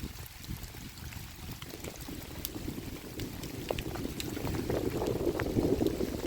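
Bubbling, pouring liquid noise that grows louder over the last two seconds, with a few small clicks.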